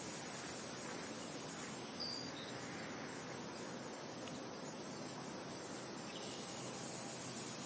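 Steady wind blowing, an even hiss-like noise without change in level. A brief high chirp cuts through about two seconds in, and a fainter short one near the end.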